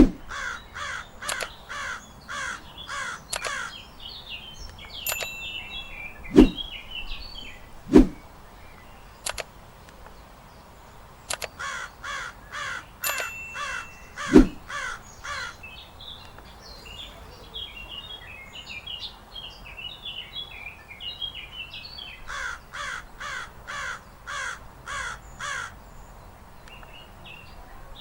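A bird giving three bouts of loud, harsh calls, about seven evenly spaced calls to a bout, with smaller birds chirping in between. Three sharp knocks stand out, two close together early on and one in the middle.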